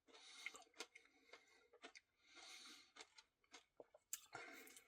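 Near silence, broken by faint mouth clicks and soft chewing of ice cream, with a few short swells of noise.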